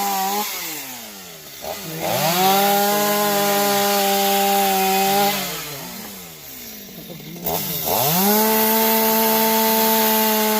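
Chainsaw cutting into a fallen tamarind tree: the engine is revved up to a steady high speed and held for about three seconds, let back down, then revved up and held again.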